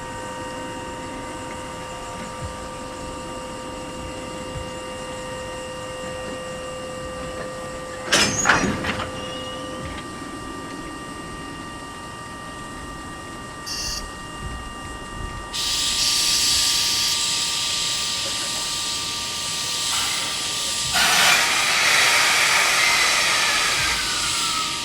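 Freight locomotives standing at a station with a steady hum, a short burst of metallic clanks about eight seconds in, then a loud, sustained hiss of compressed air from about the middle onward. This is the air brake line being vented during coupling and uncoupling.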